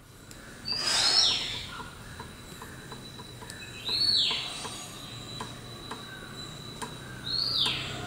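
A bird calling three times, a few seconds apart, each a short high note that sweeps down in pitch, over a faint steady high tone.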